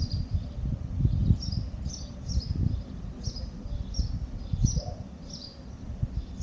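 A small bird chirping repeatedly, short high chirps coming one or two a second, over a low gusty rumble of wind on the microphone.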